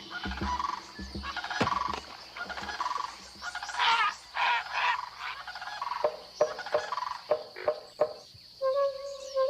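Swamp chorus of frogs and insects: repeated pulsed calls, then a run of sharp clicks about six to eight seconds in. A steady held tone with overtones begins near the end.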